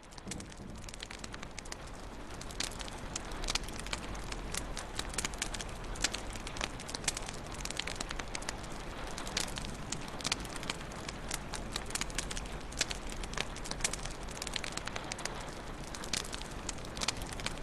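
Wood fire burning in a fireplace: a steady low hiss and rumble with frequent sharp, irregular crackles and pops. It fades in over the first second or two.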